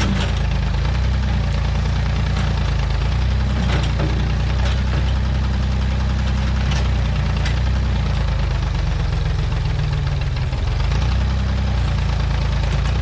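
Massey Ferguson backhoe's engine running steadily, with a few sharp knocks scattered through it. The engine note sags briefly about ten seconds in and recovers.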